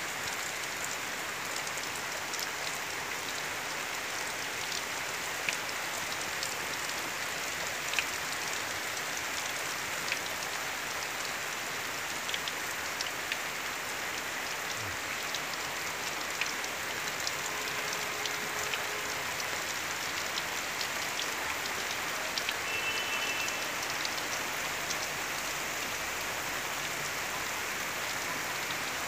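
Rain falling steadily: an even hiss with scattered sharp ticks of drops striking nearby surfaces.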